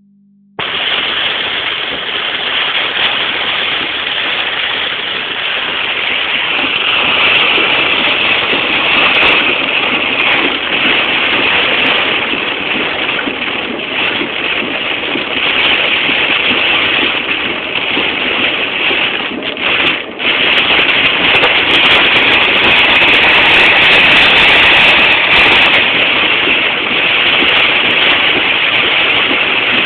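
Heavy rain driven by strong wind in a severe thunderstorm: a dense, steady rush of downpour that starts about half a second in, with a brief lull about twenty seconds in.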